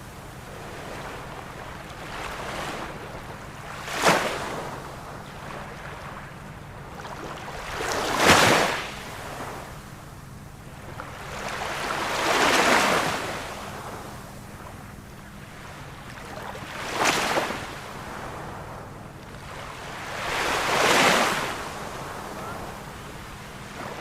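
Ocean waves breaking in a steady rhythm: five surges about four seconds apart, some short and sharp, others swelling and fading more slowly, over a constant wash of surf.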